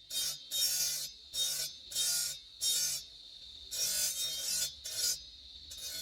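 Green marble being hand-filed: rasping strokes of a file across the stone, about one and a half strokes a second with short pauses.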